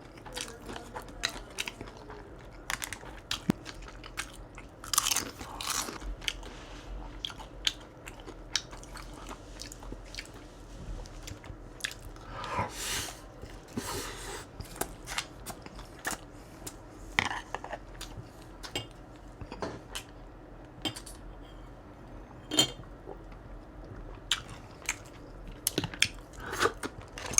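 Close-miked mouth sounds of someone chewing crispy fried crab rangoons: irregular crackling crunches and wet chewing, with the louder crunches coming at uneven intervals.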